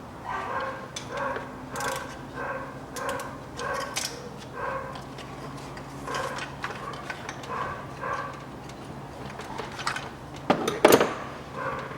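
A dog barking over and over, about one to two barks a second, with a steady low hum underneath. There are a few sharp metallic clicks from hand tools, and a louder clatter near the end.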